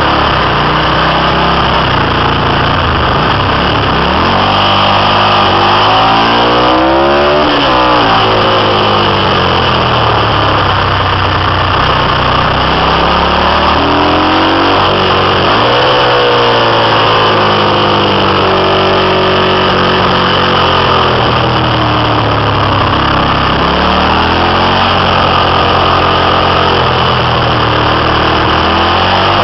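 Ducati 750 V-twin motorcycle engine under way, its revs repeatedly climbing for a few seconds and then dropping back as the bike accelerates and slows.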